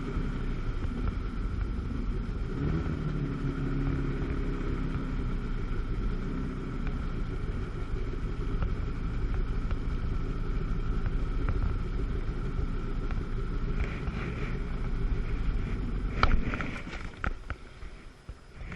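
Two-stroke jet ski engine running steadily under way, with water and wind noise. About three-quarters of the way through there are a few sharp knocks and the engine sound drops off sharply as the throttle comes back.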